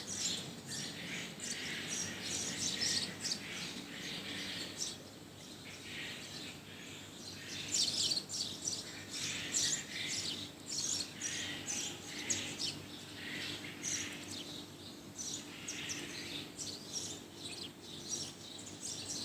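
Budgerigar chattering and warbling: a continuous run of quick chirps and twittering notes.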